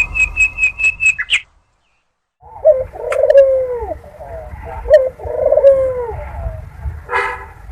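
Puter (Barbary) dove cooing twice: each coo is a short rising note followed by a longer falling coo, the breeding call played as a lure to bring doves into mating condition. It is preceded by a quick run of short high chirps that stops abruptly about a second and a half in.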